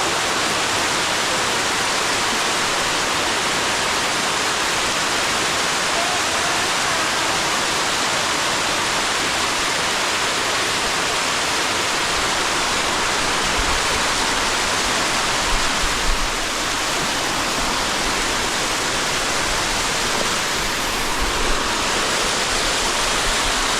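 Waterfall pouring: a steady rush of falling water. Low rumbling joins it about halfway through.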